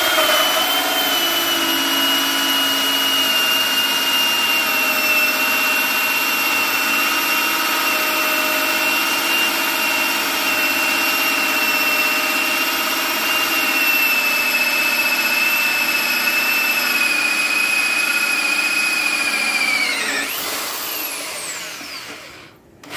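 Corded electric drill running steadily with a high whine while driving a 2 1/8-inch hole saw through a door for a doorknob hole. About 20 seconds in the pitch sags and the motor winds down to a stop, with a short rev right at the end.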